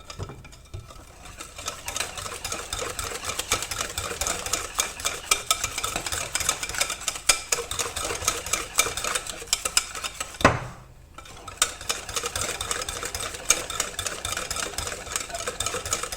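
Pancake batter being beaten by hand in a bowl, the utensil clicking rapidly against the bowl's sides to break up lumps. About ten and a half seconds in there is one loud knock, then the beating pauses briefly and resumes.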